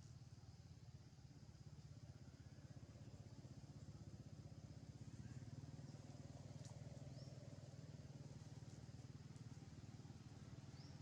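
Near silence: a faint steady low hum, with a faint click and two faint short high chirps in the second half.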